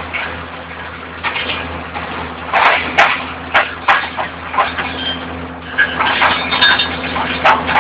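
Railway vacuum excavator running with a steady low drone while soil and stones are sucked up, clattering and cracking irregularly through the suction hose.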